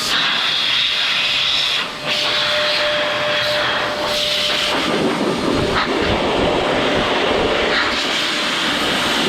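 Electric blower (Metro Blaster SideKick car and bike dryer) running steadily, a rush of air with a thin motor whine, the air noise growing fuller about halfway through.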